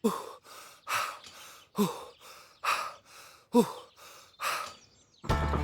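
A man grunting and puffing with effort while lifting weights: falling-pitch grunts alternate with breathy puffs, about one a second. Music comes in near the end.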